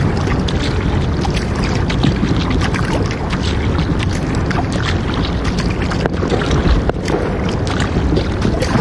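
Kayak on the river: wind rumbling on the microphone over water splashing, with many small irregular clicks and knocks.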